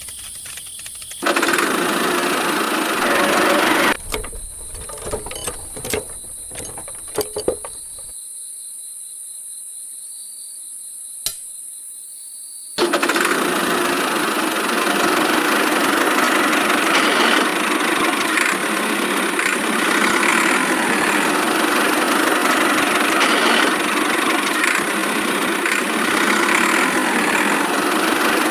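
A motor running in two stretches. It starts abruptly about a second in and stops a few seconds later; after a few scattered clicks and a quiet gap, it cuts back in about halfway through and runs steadily.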